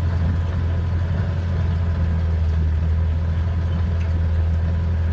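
A boat's engine running steadily, a constant low drone with no change in speed.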